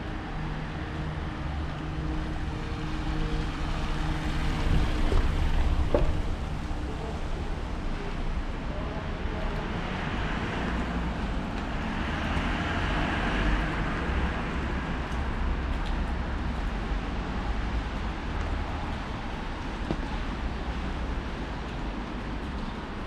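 Steady rain on a wet town street, with a vehicle's engine running in the first few seconds and a car's tyres hissing on the wet road as it passes about halfway through.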